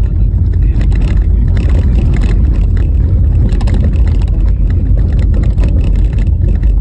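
Car driving over a rough, rutted winter road: a loud steady low rumble from the tyres and road, broken by many short knocks and rattles as the car jolts over the bumps.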